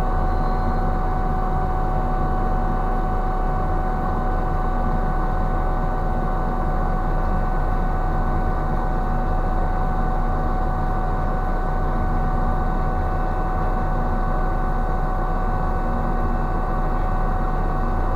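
Steady, unchanging drone of heavy ship's machinery, a low hum with a fixed whine over it.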